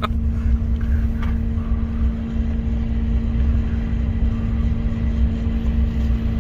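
A vehicle driving at a steady speed, heard from inside: a constant low engine and road rumble with a steady droning hum over it.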